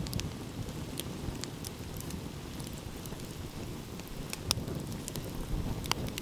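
Wood fire crackling, with scattered sharp pops, the loudest about four and a half seconds in, over a low steady rumble of sea and wind.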